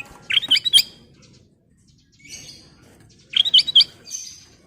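Kutilang emas, a bulbul, singing: two short phrases of quick, bright whistled notes about three seconds apart, with softer chattering calls between and after them.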